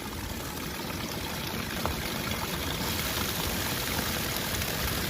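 Seawater pouring and streaming over rocks like a small waterfall, a steady rush of water that grows a little louder and brighter about halfway through.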